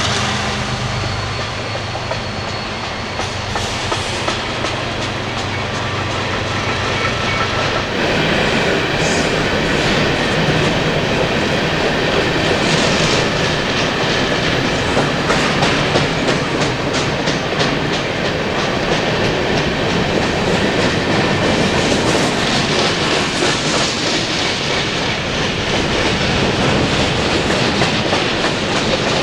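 A coal train's hopper cars rolling past, steel wheels clattering over the rail joints with a steady rumble. A diesel locomotive's low hum fades away over the first several seconds.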